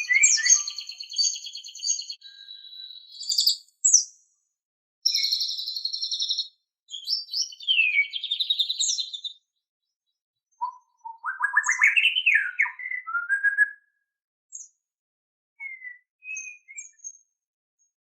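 White-rumped shama (murai batu) singing in bursts of rapid, varied phrases: fast trills and whistled sweeps. There is a pause of about a second halfway through, then a rising-and-falling whistled run, then a few short notes near the end.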